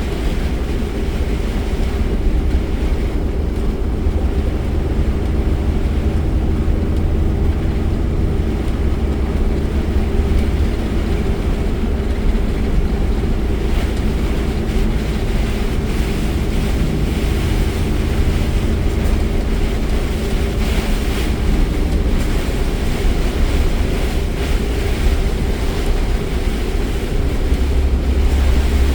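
Car driving through a heavy rainstorm, heard from inside the cabin: a steady low road rumble under the hiss of rain and tyre spray, the rumble growing stronger near the end.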